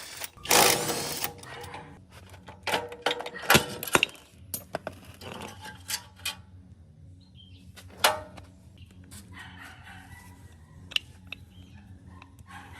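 Metal parts and hand tools clinking and knocking during motorbike engine disassembly. A loud rasping burst lasts about a second at the start, then come many sharp clicks, thick for the first few seconds and scattered after.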